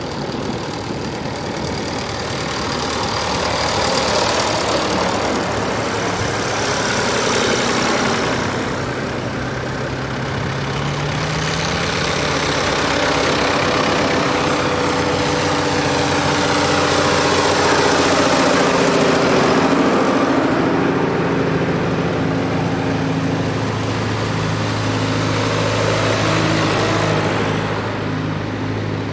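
Several tractor engines running and driving past one after another, their engine notes overlapping at different pitches and the sound swelling and fading as each goes by.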